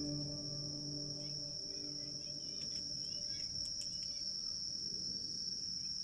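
Crickets trilling in a steady high tone over a low crackling haze from a campfire, with a few short chirps in the middle. Soft ambient music fades out during the first two seconds.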